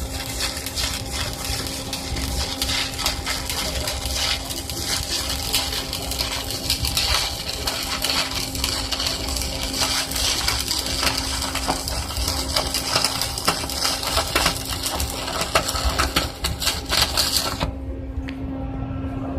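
Welding arc crackling and sputtering steadily over a steady hum; the crackle cuts off near the end as the arc stops, leaving only the hum.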